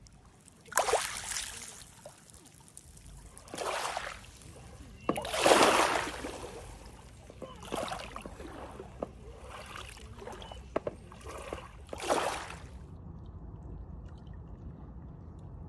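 Water splashing and sloshing in about six separate surges, a second or two apart, the loudest about halfway through. It gives way to a faint steady low rumble near the end.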